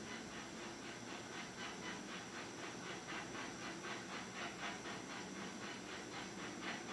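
A dog panting softly in quick, even breaths.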